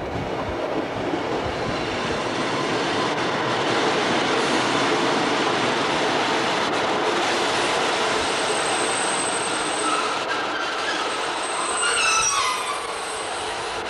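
British Rail Sprinter diesel multiple unit running along the platform with a steady rumble of wheels and engine. Near the end a high squeal falls in pitch as the train moves.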